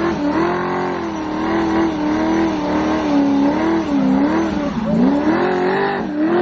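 Car engine held at high revs during a burnout, its pitch wavering up and down, with the hiss of spinning tires underneath.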